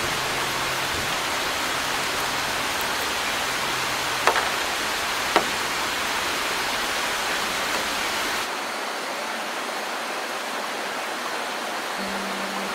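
Steady rushing of a flowing river, with faint background music notes underneath and two sharp clicks about four and five seconds in. About two-thirds of the way through the rush cuts abruptly to a thinner, quieter one.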